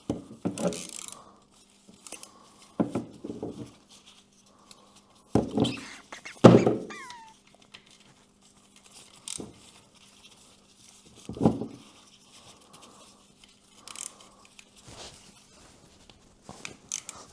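Scattered knocks and handling noises of tools and metal parts while a new oil filter is screwed onto a BMW boxer engine and tightened, with the loudest knock about six seconds in. A faint steady hum runs underneath.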